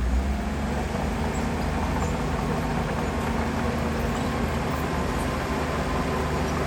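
Heavy diesel earthmoving machinery running steadily under load, with an even engine drone and mechanical noise.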